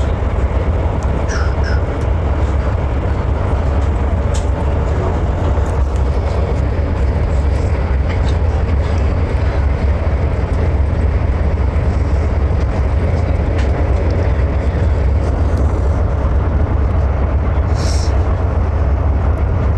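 Steady low rumble of a moving passenger train, heard from inside the carriage, with a few faint clicks and a brief hiss near the end.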